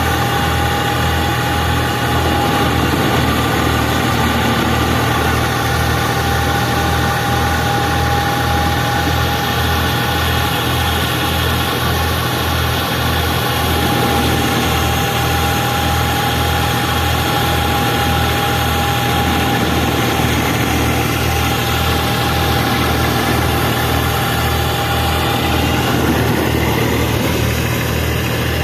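Tractor diesel engine running steadily, with a regular low throb and a steady high whine over it.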